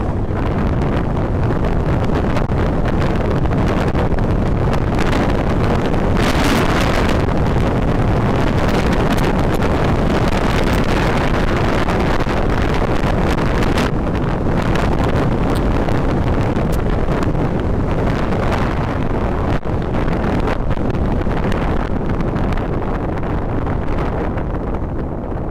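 Wind rushing over the microphone on a moving motorcycle, with the ride's vehicle noise beneath. It is a loud, steady rush, with a brief brighter hiss about six seconds in.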